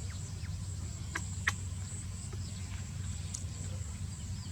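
Steady high-pitched insect drone, typical of crickets, over a low rumble. A few short sharp clicks come through, the loudest about one and a half seconds in.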